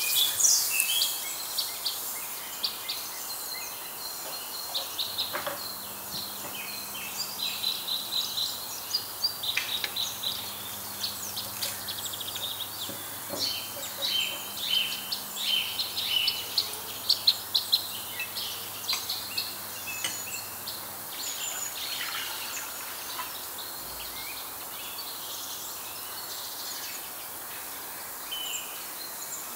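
Small birds chirping and singing in quick, short high calls that come and go, over a steady background hiss.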